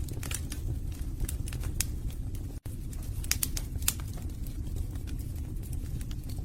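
Wood fire burning in a fireplace: logs crackling with irregular sharp pops over a steady low rumble of the flames. The sound cuts out for an instant about two and a half seconds in.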